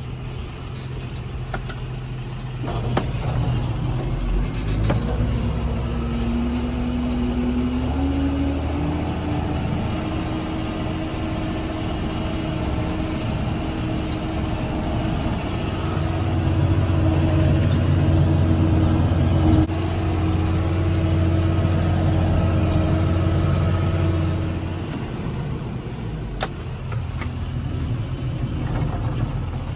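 Tractor engine running steadily. It rises in pitch about six to ten seconds in, then runs louder for several seconds before easing off.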